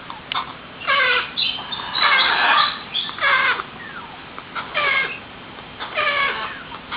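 Young hand-fed parrots (African greys and macaws) giving repeated squawking cries, about one every second, several with a falling pitch.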